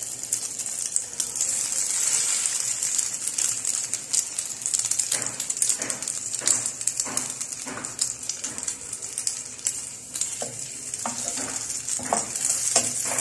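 Egg-soaked bread frying in shallow oil in a pan, with a steady sizzle. From about five seconds in, short taps and scrapes of the cooking utensils against the pan as the toast is held on its edge and turned.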